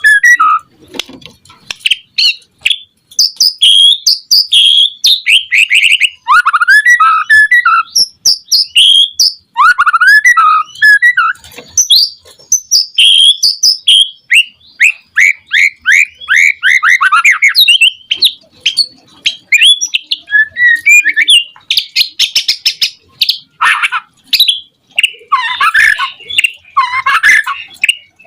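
White-rumped shama singing a rapid, varied song of loud whistles, fast sweeping notes and trills in quick phrases, with short pauses between them.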